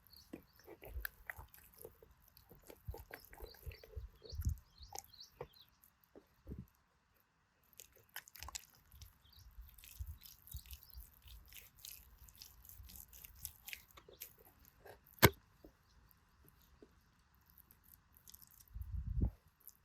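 Campfire crackling under a fish grilling on a grate: scattered small pops and crackles, with one sharp pop about fifteen seconds in and a brief low rumble near the end.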